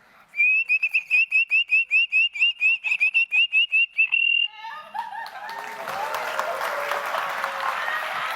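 A child imitating the song of the cicajo bird, whistled as a rapid run of short high chirps at one pitch, about five a second, ending in a held note about four seconds in. About a second later, applause and crowd noise take over.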